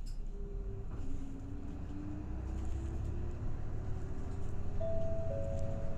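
Route bus running on the road, heard inside the cabin: a steady low engine and road rumble, with a faint whine that rises slowly in pitch from about a second in as the bus picks up speed.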